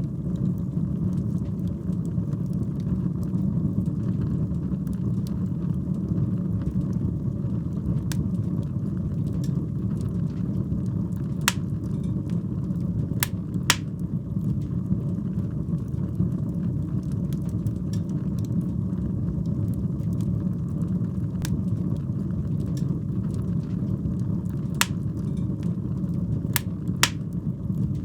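Wood fire burning in a fireplace: a steady low rumble of flames with scattered sharp crackles and pops, a few close together about halfway through and again near the end.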